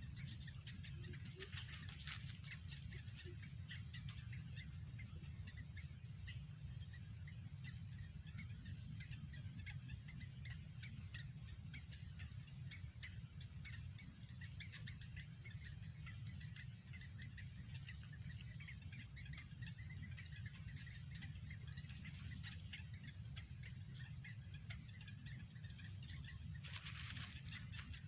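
Outdoor ambience: birds chirping in many short calls throughout, over a steady high-pitched insect drone and a low rumble.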